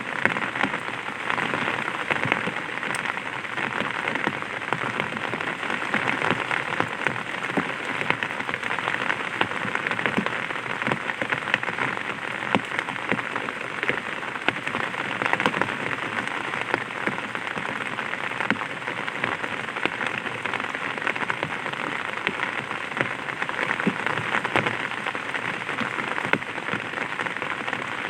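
Light rain pattering on an umbrella canopy: a steady hiss of drops with many small individual taps.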